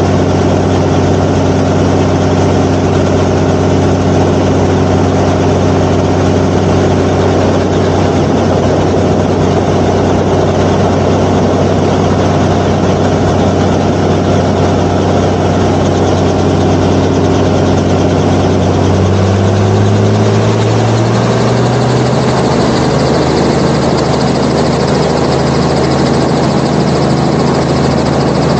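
Helicopter engine and rotor running steadily and loudly. About two-thirds of the way through, the pitch rises and settles at a higher note.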